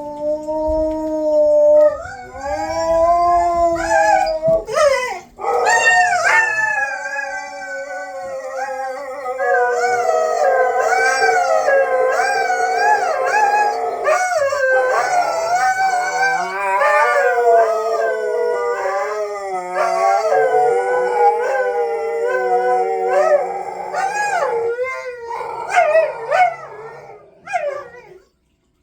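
A dog howling in long notes that waver up and down in pitch, with a short break about five seconds in, trailing off near the end.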